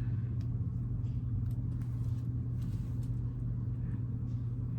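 Steady low hum of background noise, with a few faint, light clicks and rustles.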